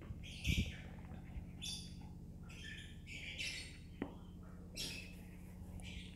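Small birds chirping in short, repeated high bursts over a faint steady low hum, with a low thump about half a second in and a single click near the middle.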